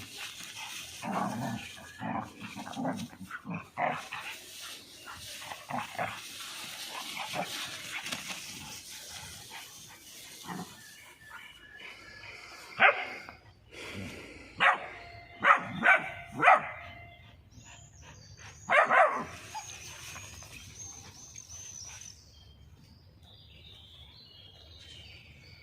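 Dogs playing, with scuffling and short low sounds at first, then a run of sharp barks or yelps in the second half: about five close together and one more a couple of seconds later.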